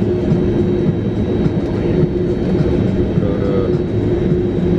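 Cabin noise in a Boeing 767-400ER while taxiing after landing: a steady rumble of the engines at idle and the airliner rolling along the taxiway, with a constant hum.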